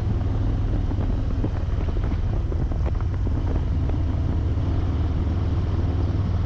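Harley-Davidson Road Glide Limited's V-twin engine running at a steady cruise, a low drone under wind rush, heard through a helmet intercom microphone.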